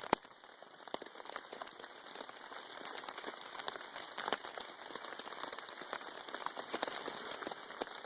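Rain falling on a tarp overhead: a steady hiss with many small, sharp drop impacts scattered throughout.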